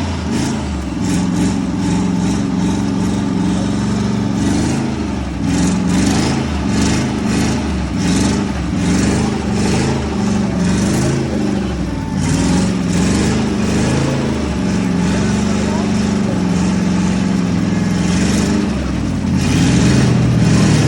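Car engine running loud, its pitch rising and falling as it is revved, with voices in the background.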